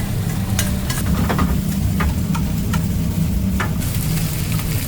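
Food sizzling in a hot pan while it is stirred, with a utensil clicking against the pan several times, over a steady low hum.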